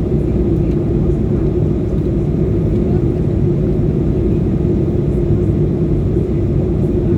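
Airliner cabin noise in flight: a steady low rumble of engines and airflow with a constant hum.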